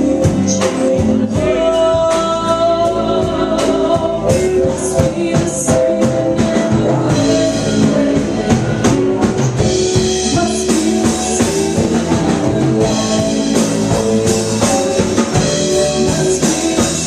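Rock band playing with a singer, drum kit and guitar.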